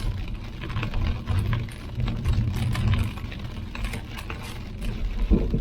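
Vehicle driving with a low, uneven rumble of road and wind noise, and many scattered light ticks and taps striking the body.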